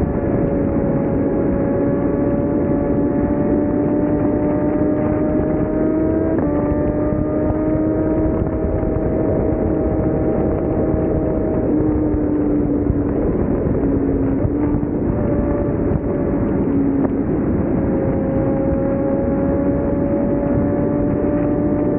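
BMW S1000RR inline-four engine running at steady high revs while riding, its pitch holding nearly level with a few small steps up and down, under a thick rush of wind noise.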